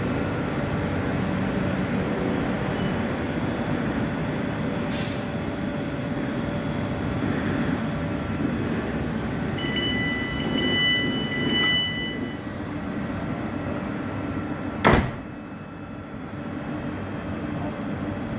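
Train standing at a platform with its equipment humming steadily; its door warning sounds as a run of beeps, and about three seconds later the doors shut with one sharp bang.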